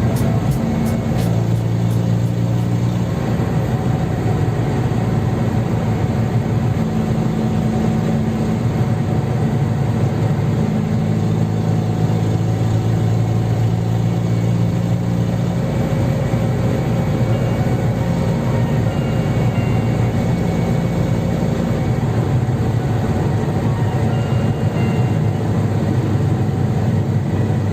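Fiat 126p's 652 cc two-cylinder air-cooled engine running steadily while driving, its note shifting a few times as the revs change.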